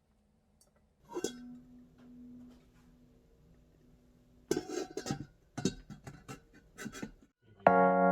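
Dishes and cutlery clinking: a knock about a second in that leaves a ringing tone for a few seconds, then a quick run of clinks and knocks from about halfway through.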